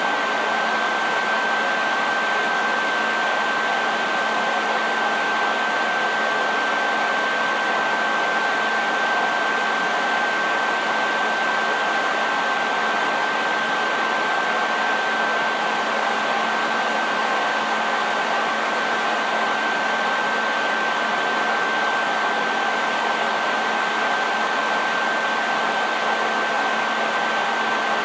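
Hair dryer running continuously at a steady speed: an even rush of blown air with a constant high whine from the motor and a faint low hum underneath.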